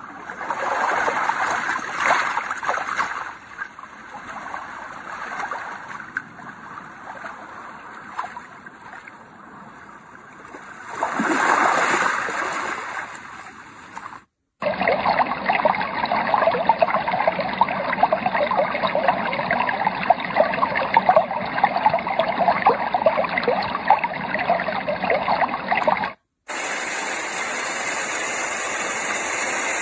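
Yogasleep Duet sound machine playing its recorded nature sounds through its small speaker: flowing, stream-like water, then a dense crackling patter. It cuts out briefly twice as the track changes, and near the end it switches to a steady white-noise hiss.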